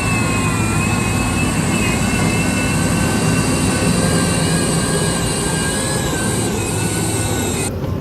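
Motor grader's diesel engine running steadily, with a wavering whine over the engine noise. The sound changes abruptly near the end.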